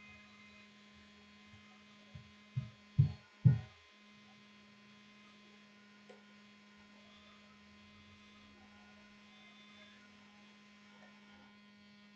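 Steady low electrical mains hum, with three short low thumps about three seconds in.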